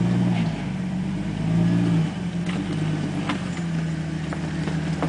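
Off-road rock-crawling vehicle's engine running at low revs, swelling briefly twice with light throttle, with a few faint clicks or knocks.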